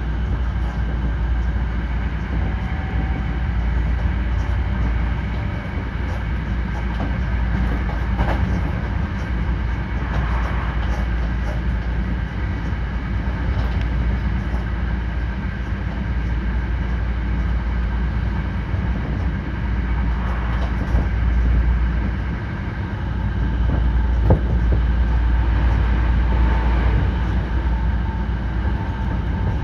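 Hankyu 9300 series electric train running, heard from inside the car: a steady rumble of wheels on rail with a few scattered clicks.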